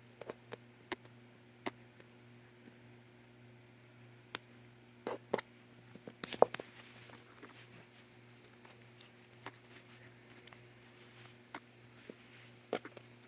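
A cat play-attacking a person's hand: scattered soft taps, clicks and rustles, with a louder scuffle about six seconds in. A faint steady hum lies underneath.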